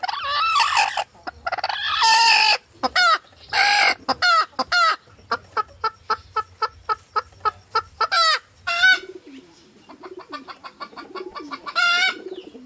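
Chickens calling: several loud drawn-out squawking calls, then a quick run of short clucks at about five a second, two more loud calls, and softer low clucking before a last loud call near the end.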